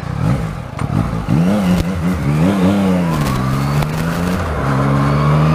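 Yamaha MT-09 three-cylinder motorcycle engine pulling away under throttle. The revs climb and drop twice as it shifts up, then hold steady.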